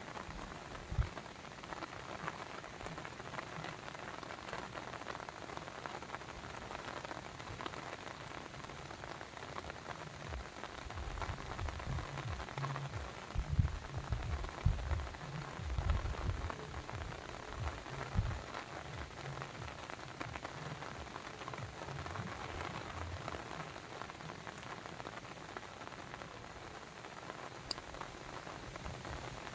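Steady, dense water noise with a fine pattering texture, like water splashing over stones or rain falling, with occasional low thumps clustered around the middle.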